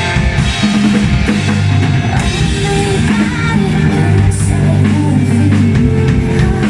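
Live rock band playing loud and without a break, the drum kit prominent over bass and guitars.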